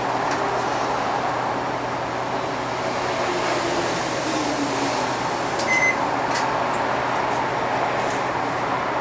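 Interior running noise of a 2006 UD (Nissan Diesel) Space Runner RA non-step city bus: steady engine and road noise, with a faint falling whine a few seconds in and a couple of short clicks around six seconds in.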